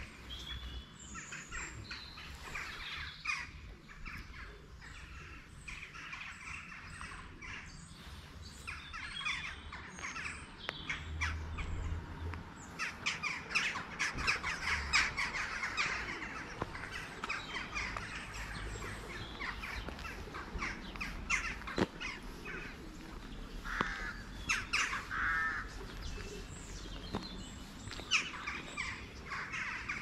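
Many birds calling outdoors, with short, repeated calls overlapping throughout and a busier stretch about halfway through.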